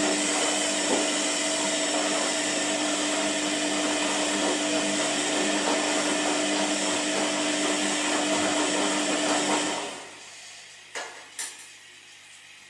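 Washing machine running: a steady motor whir with a rushing hiss, which winds down and stops after about ten seconds. Two short knocks follow near the end.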